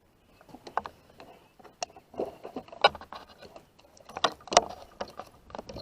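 Irregular knocks, clicks and a jangle of gear being handled in a kayak, with the loudest knocks a little past the middle.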